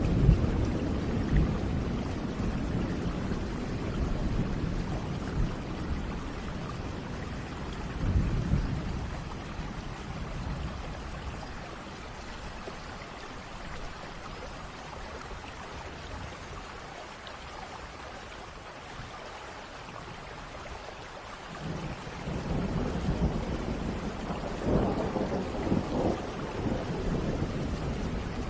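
Thunderstorm: steady rain with rolling thunder. A rumble fades away at the start, a short thunder clap comes about eight seconds in, and after a quieter stretch of rain a long rumble builds again for the last seven seconds.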